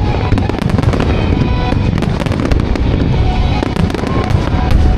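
Fireworks barrage from a music-synchronised starmine: a continuous low rumble of shell bursts with dense crackling throughout, over pop music from the show's loudspeakers.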